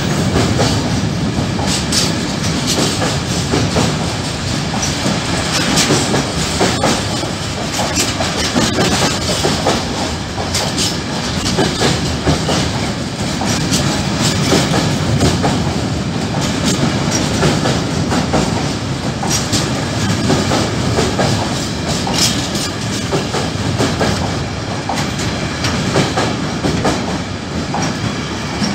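Freight train of covered sliding-wall wagons (Habbiins type) rolling past close by, a steady rumble with the wheels clicking and clattering over the rail joints.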